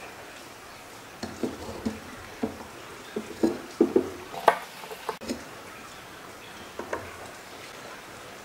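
Light clicks and knocks of hard composite pump parts being handled and fitted together, several in a cluster from about one to five seconds in and a couple more near seven seconds, over a faint steady hiss.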